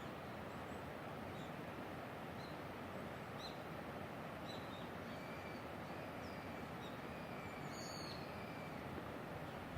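Small birds giving short, faint, high chirps every second or so, with a sharper call about eight seconds in, over a steady rushing hiss.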